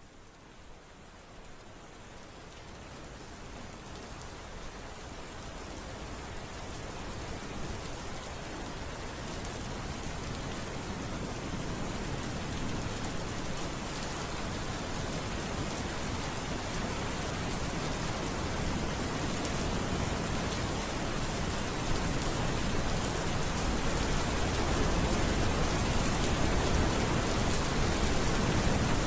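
Steady rain falling on surfaces, an even hiss of drops, fading in gradually from near silence to full level.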